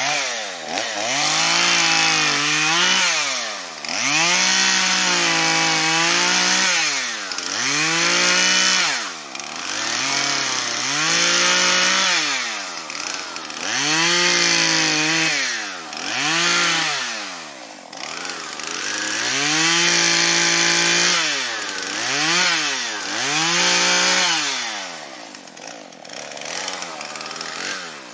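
Chainsaw revved to full throttle about nine times, each time held for a second or two and then dropped back, as when cutting up fallen limbs from storm-downed trees. It settles to a lower, quieter idle near the end.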